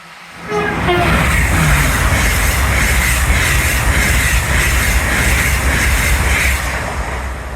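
A train passing close by at a level crossing, with a loud, steady rush of wheel and rail noise that comes in suddenly about half a second in. A brief pitched note sounds as it arrives.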